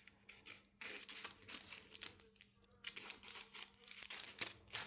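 Watercolour pencil scribbling on masking tape: faint, irregular scratchy strokes and light rustling.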